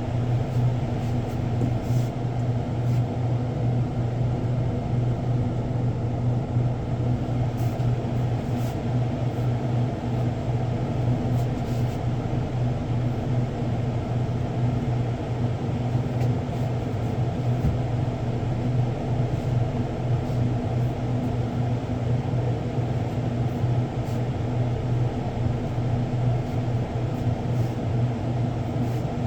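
A steady, unbroken low machine hum with a faint even noise over it and a few light ticks now and then.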